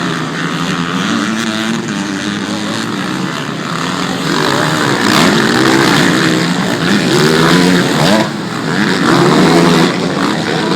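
Several off-road motorcycles racing, their engines revving up and down with overlapping rising and falling pitches, loudest about halfway through and again near the end.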